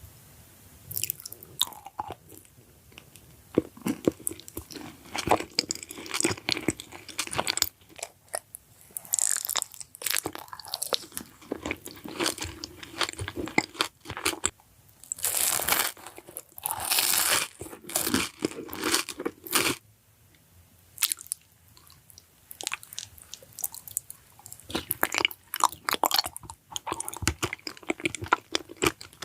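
A person biting and chewing crunchy food: dense crackly crunches that come in bursts, with short pauses between bites.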